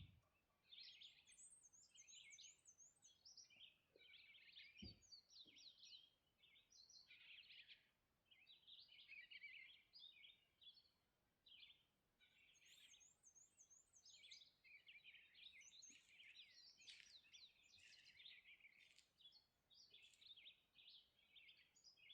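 Faint dawn chorus of several songbirds singing over one another: chirps and warbles throughout, with a high, rapidly repeated trill twice. A faint low thud about five seconds in.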